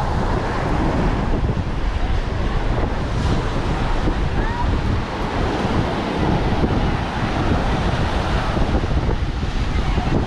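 Wind buffeting the microphone over the steady wash of ocean surf, with faint voices of people nearby.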